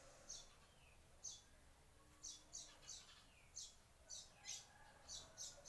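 Faint, repeated high chirps from a small bird, each a short falling note, about ten in all, coming closer together after the first couple of seconds.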